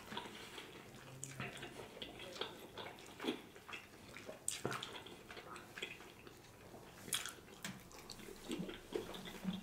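Close-miked eating sounds: wet chewing and lip smacks as a seafood birria taco dipped in consommé is bitten and chewed, a scatter of short wet clicks.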